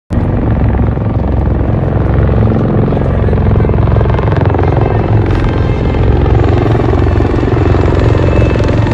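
Bell Boeing V-22 Osprey tiltrotor aircraft running, its proprotors making a loud, steady, rapid beating.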